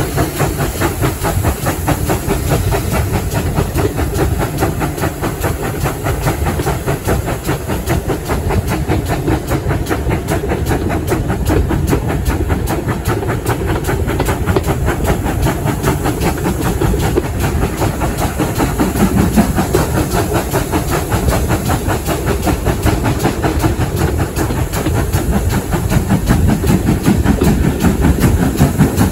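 Steam-hauled heritage train running at speed, heard from an open carriage window: a loud, steady rush of air and wheel-on-rail running noise.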